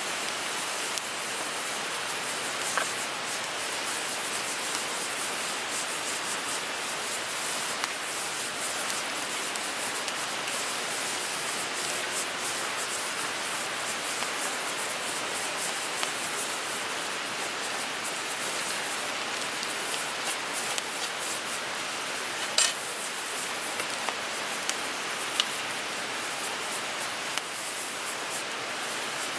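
Wood fire crackling in a small fire pit: a steady hiss sprinkled with many small crackles and a few sharper pops, the loudest about three quarters of the way through.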